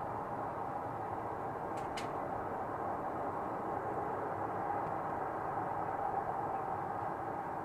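Steady droning hum with no break, of the kind reported as a strange sound in the sky, with two faint clicks about two seconds in.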